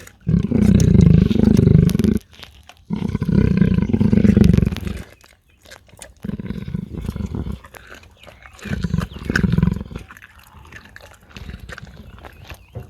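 A big cat roaring: a series of deep, drawn-out calls, each a second or two long, which get shorter and weaker, then fade to fainter grunts near the end.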